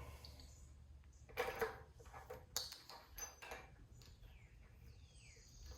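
Faint clinks and knocks of tools and parts being handled during work on the engine, with birds chirping a few times in the background.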